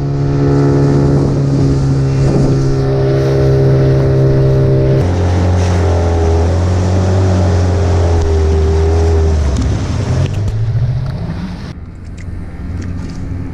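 A small engine running loud and steady. Its pitch drops about five seconds in and climbs again about ten seconds in, as it speeds back up.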